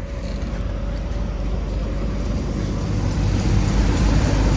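Steady low rumble of vehicles, with a faint steady tone in it, growing a little louder about three and a half seconds in.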